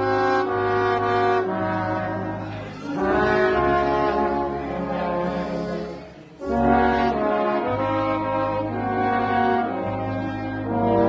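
Brass ensemble playing a slow hymn in long, held chords over a deep bass line. The chords break off briefly about six seconds in, then come back.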